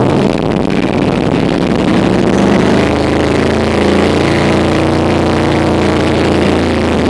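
Carbureted Ford 302 V8 in a pickup running on choke just after a cold start in sub-zero cold. It runs steadily and evens out from about two and a half seconds in.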